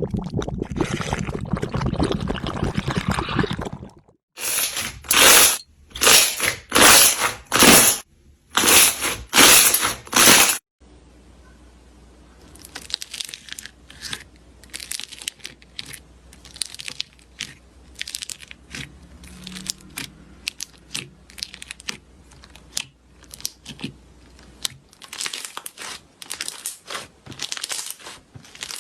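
Slime being squeezed and pressed by hand, making crackly, crunchy sounds. A dense crackle lasts about four seconds, then come eight loud squeezes a little under a second apart, then softer, scattered crackling and clicking.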